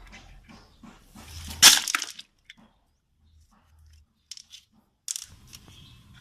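Waterproof plastic phone pouch being handled and dipped into water: a loud burst of crinkling and splashing about a second and a half in, then a few seconds of muffled near silence, then scattered clicks and rustles near the end.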